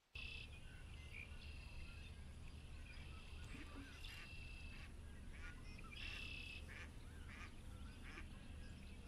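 Birds calling over and over in short, high calls, some drawn out for about half a second, over a steady low rumble.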